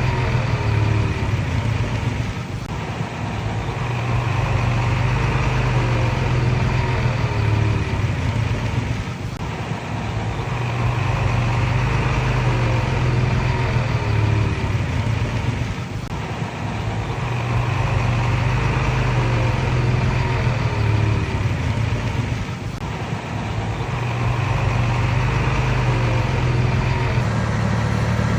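Komatsu D31PX bulldozer's diesel engine running under load, easing off briefly every six or seven seconds as the machine works back and forth, with faint short squeals between the dips.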